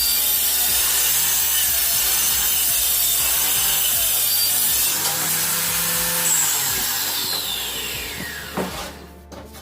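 Electric saw cutting wood, a loud steady rasping whine; near the end it is switched off and its motor winds down in a long falling whine.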